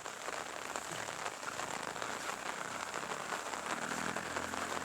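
Steady drizzle falling over rice paddies: a fine, even patter of light rain.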